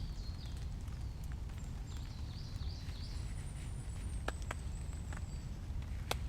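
Small birds chirping in short, quickly falling notes, with a thin high whistle in the middle, over a steady low rumble; a few sharp clicks or taps come at the start, twice past the middle and near the end.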